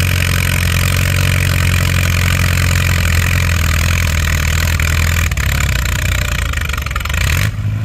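Allis-Chalmers WD tractor engine running steadily under full load as it pulls a weight-transfer sled. Its pitch drops about five seconds in as the engine lugs down, and near the end the hiss cuts off abruptly as the pull ends.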